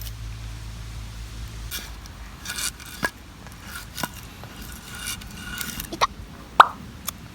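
Split firewood being handled and stacked on a metal fire pit: rustling and scraping, with a few sharp clinks and knocks that ring briefly, the loudest about two-thirds of the way through.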